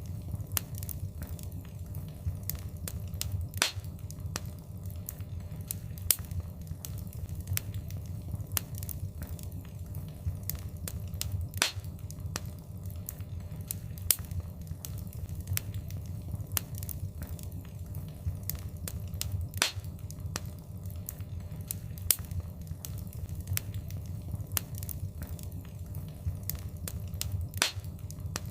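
Fire in a fireplace crackling, with irregular sharp pops, a few louder than the rest, over a steady low rumble of the flames.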